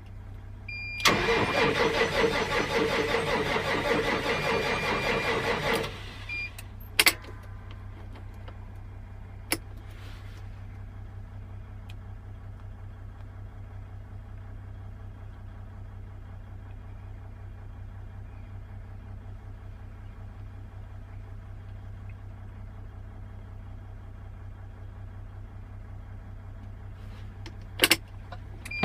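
Case IH MXM 190's diesel engine cranked on the starter for about five seconds in freezing cold without firing, then left turning off, with a low steady hum and a few sharp clicks afterwards. This is a hard cold start: no block heater, and the glow plugs have not been enough.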